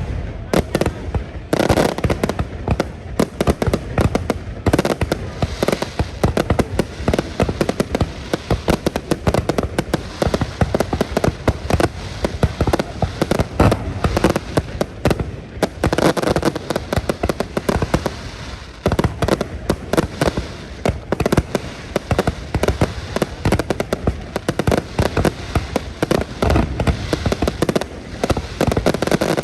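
Dense, continuous barrage of fireworks: a rapid, unbroken run of bangs and crackling bursts.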